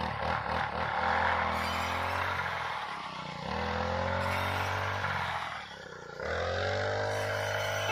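Engine revving in three surges, each rising in pitch and holding steady for a couple of seconds, with brief drops between them.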